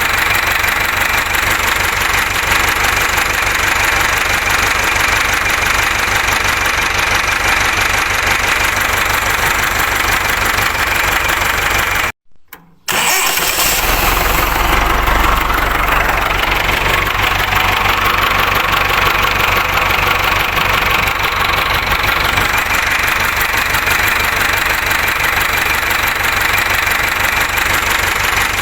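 Ford 6610 tractor's four-cylinder diesel engine running steadily. About twelve seconds in it breaks off for a moment, then carries on with a heavier low rumble.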